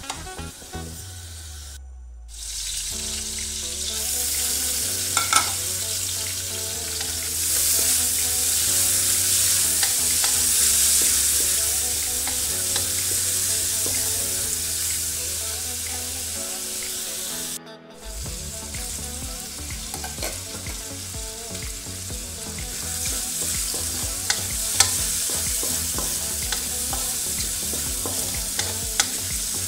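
Prawns, then bean sprouts and fish cake, sizzling in hot oil in a metal wok while being stir-fried, with the spatula clicking and scraping against the pan now and then. The sizzling breaks off briefly twice, about two seconds in and again around halfway.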